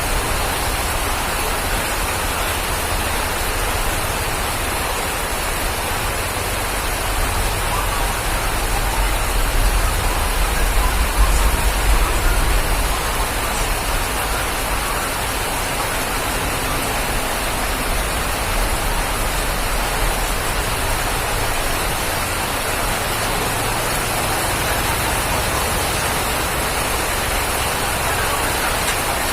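Steady rain falling, an even hiss without pause, with a low rumble that swells and fades around ten seconds in.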